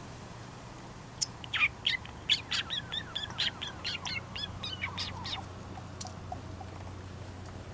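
A bird singing a rapid series of short, high, falling chirps for about four seconds, starting about a second in, over a low steady hum.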